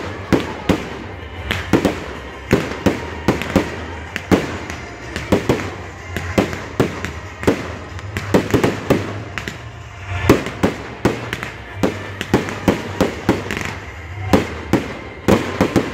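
Firework display: aerial shells launched from mortars and bursting overhead, an uneven rapid series of sharp bangs, two or three a second.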